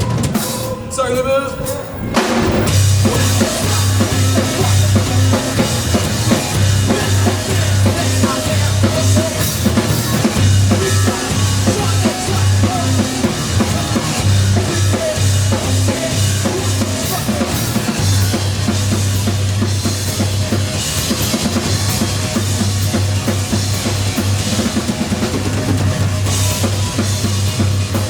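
Live rock band playing loud, with drum kit and heavy bass guitar lines. After a brief lead-in with gliding pitched tones, the full band comes in about two seconds in.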